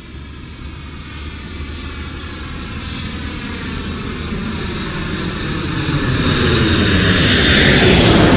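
Aircraft flying overhead, growing steadily louder as it approaches, its engine pitch falling near the end as it passes.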